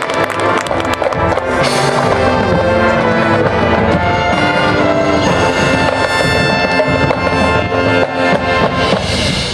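High school marching band playing: sharp percussion hits over the first couple of seconds, then loud held brass chords.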